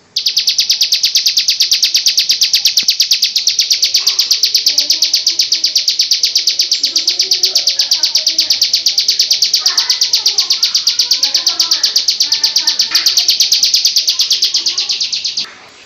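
A ciblek sawah (prinia) giving its 'ngebrem' call: a loud, rapid buzzing trill of about a dozen pulses a second, held without a break for about fifteen seconds and stopping abruptly near the end. Children's voices murmur faintly underneath.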